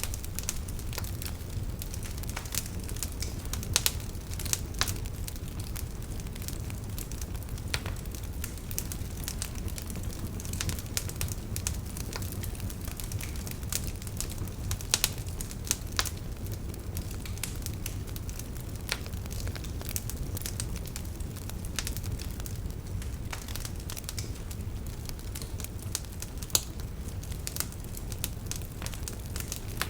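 Wood fire burning in a fireplace: a steady low rumble of flames with frequent irregular crackles and occasional louder pops of burning logs.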